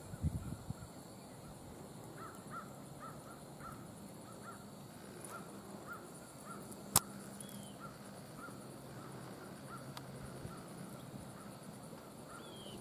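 A bird calling over and over in short, quick notes, a few a second. A single sharp click about seven seconds in is the loudest sound.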